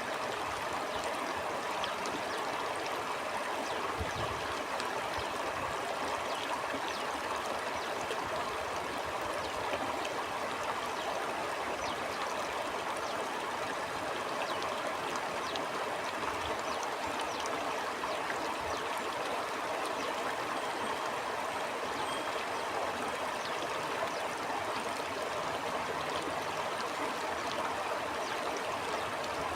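Stream water flowing steadily over stones, a continuous babbling rush with fine trickling detail.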